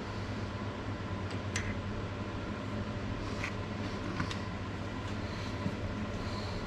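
Steady low machine hum in a machine shop, with a few light clicks and taps about a second and a half, three and a half and four seconds in.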